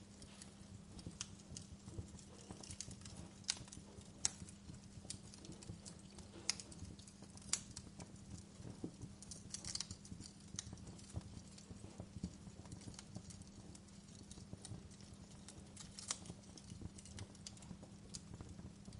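Wood fire crackling, with irregular small crackles and occasional sharper pops over a low, steady rumble.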